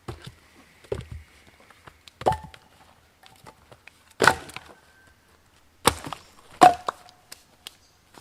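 Firewood being broken up for a campfire: a series of sharp, separate wooden cracks, about five in all, one to two seconds apart, the loudest near the end, some with a short ringing note after them.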